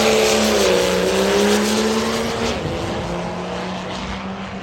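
High-horsepower truck engine at full throttle, its pitch stepping down twice, once near the start and again about halfway, while the sound fades steadily as it pulls away.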